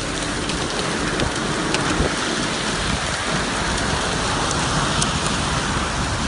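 Heavy rain falling steadily, a dense hiss with scattered sharp ticks of drops striking a surface.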